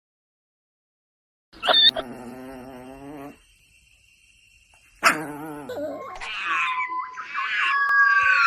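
An animal calling: a pitched call about a second and a half in, another at about five seconds, then a run of high whining cries that rise and fall.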